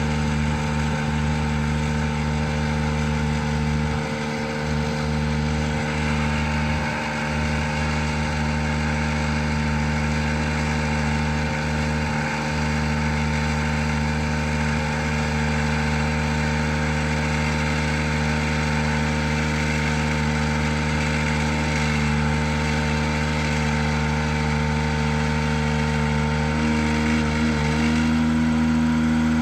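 A bucket truck's engine running steadily at idle. Near the end its note steps up in pitch and grows slightly louder, as the engine speed rises.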